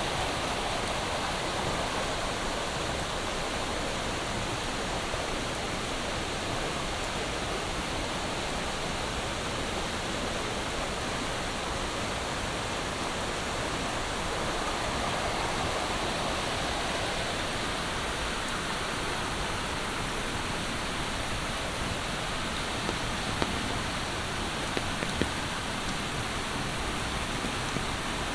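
Steady heavy monsoon rain, an even hiss of rainfall, with a few sharper drip-like taps near the end.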